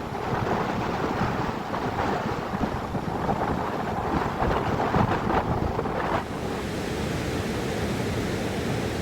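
Rushing mountain river water with wind buffeting the microphone; about six seconds in the noise turns steadier and duller.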